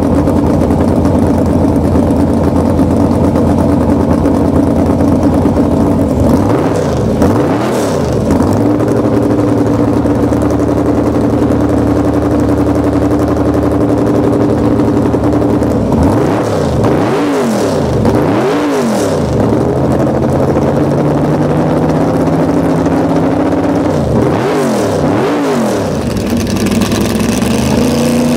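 Car engine idling loudly and being blipped by hand: several quick revs, each rising and falling back to idle, in three bursts with steady idle between them.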